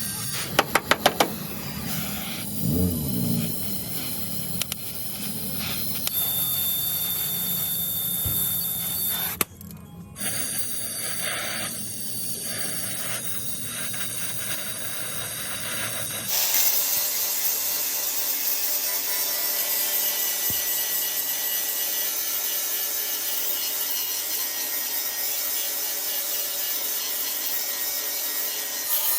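Body-repair work on a crash-damaged car: a few quick knocks about a second in, then rasping and rubbing, as of sanding or filing the panels, changing several times and turning to a steady even hiss in the second half.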